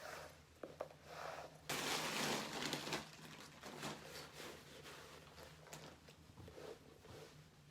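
A fabric waist bag and its strap rustling as they are handled, with a couple of soft clicks a little over half a second in, over a faint steady low hum.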